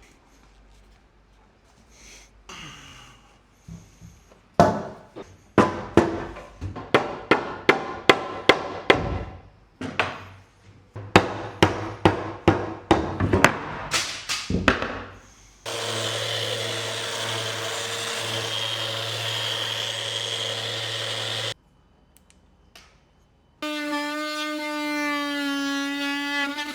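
A run of sharp knocks, one or two a second, like a mallet tapping joinery pieces together. They are followed by a power tool running steadily for about six seconds, then a steady humming whine near the end.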